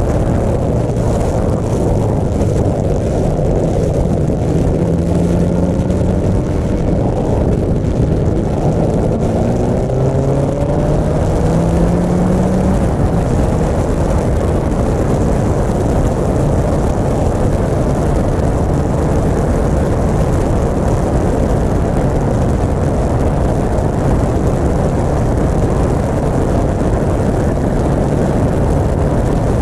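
Motorcycle engine running on the road under heavy wind rush; its pitch rises twice in the first half as it accelerates.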